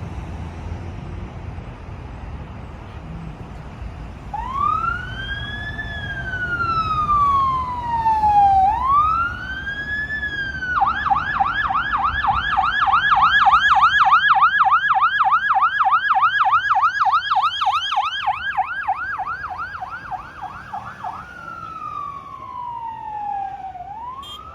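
Fire engine's electronic siren on an emergency response. After a few seconds of low engine and road rumble, it starts a slow rising and falling wail, switches to a fast yelp of about three cycles a second for ten seconds, then returns to the slow wail.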